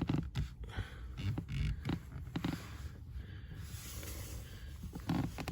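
Light knocks and rustling from hands and gear being handled in a cramped space, with a person breathing heavily. The knocks are grouped in the first two seconds or so; after that it is mostly soft rustle and breath.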